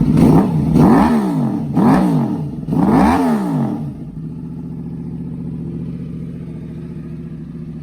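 Yamaha R1's crossplane inline-four engine breathing through an aftermarket Toce exhaust, blipped four times in quick succession with the pitch rising and falling each time. It then settles back to a steady idle.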